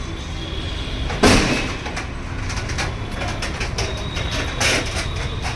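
Steady low rumble of idling buses, with two short, loud bursts of noise, about a second in and near the end.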